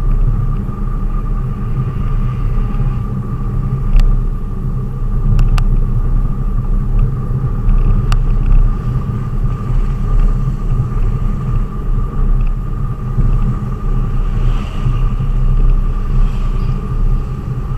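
Steady low engine and road rumble of a moving delivery vehicle, with a faint steady whine and a few sharp clicks in the first half.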